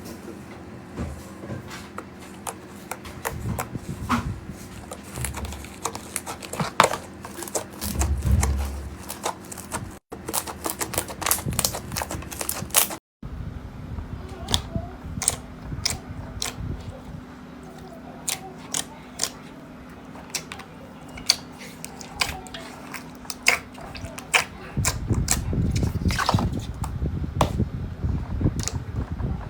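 Slime being squeezed, pressed and stretched by hand: a dense run of sharp clicks and pops over a faint steady hum, broken by two brief silent cuts about ten and thirteen seconds in.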